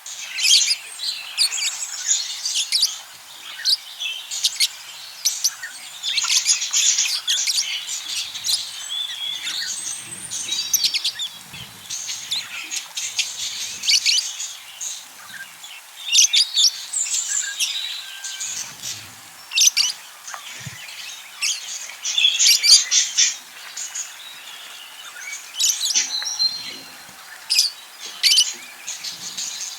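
Budgerigars chattering: a steady stream of quick high chirps and warbles, with short pauses.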